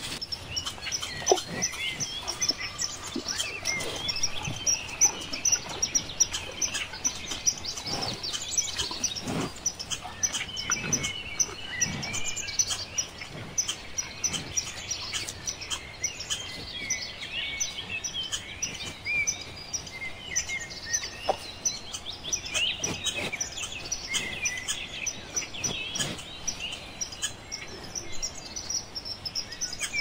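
A chorus of small birds chirping and twittering, many short high calls overlapping, with scattered soft clicks.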